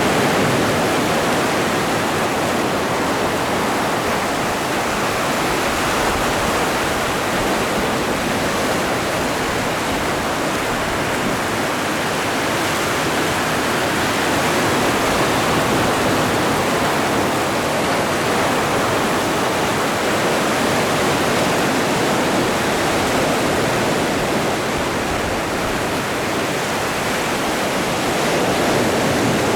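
Atlantic Ocean surf: a continuous wash of breaking waves, swelling a little about halfway through and again near the end.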